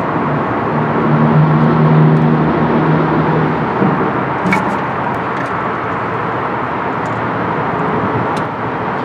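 Steady background traffic rumble, with a passing motor vehicle's engine drone over it for the first few seconds, and a few small sharp clicks.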